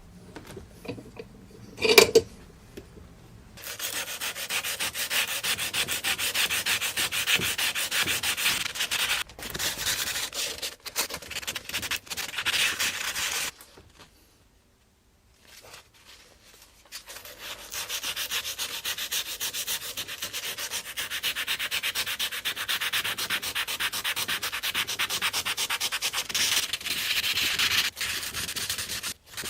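Rapid hand-sanding strokes, abrasive rubbed fast back and forth, heard during the restoration of a rusty knife. The sanding comes in two long runs with a pause of a few seconds between them, after a single sharp knock about two seconds in.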